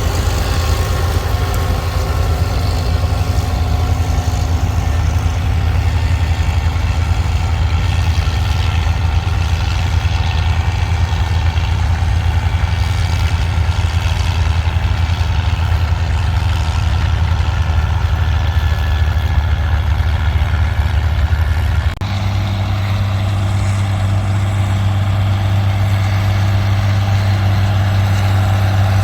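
Farm tractor engines running steadily while plowing. About three-quarters of the way through the sound switches abruptly to a different engine's steady, deeper-pitched running.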